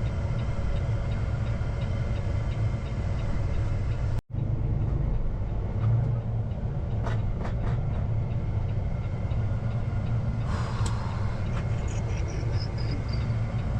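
Peterbilt semi truck's diesel engine running under way, a steady low drone heard from inside the cab. The sound cuts out very briefly about four seconds in.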